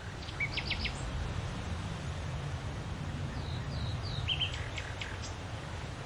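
Small birds chirping in short calls, a few about half a second in and a quick run of falling notes and chirps around four to five seconds in, over a steady low outdoor rumble.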